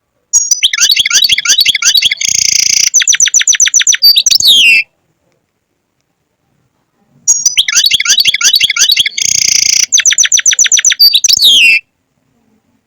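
European goldfinch song: two identical phrases of about four and a half seconds each. Each phrase runs through quick twittering notes, a buzzy stretch and a fast rattle, and ends in falling glides; the phrases are separated by a few seconds of silence, so the same song recording is repeated.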